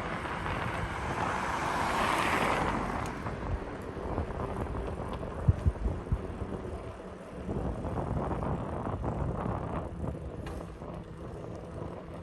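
Wind buffeting the microphone and road noise while riding a bicycle, with a louder rush of noise that swells and fades about two seconds in and a few sharp knocks about five seconds in.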